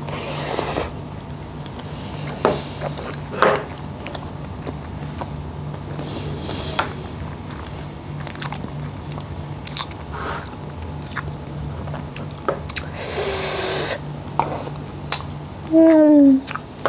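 Close-miked chewing of a mouthful of rice and seafood in fish sauce: wet mouth sounds and small clicks and crunches, over a steady low hum. A louder rush of mouth noise comes about thirteen seconds in, and a short hum in her voice, falling in pitch, near the end.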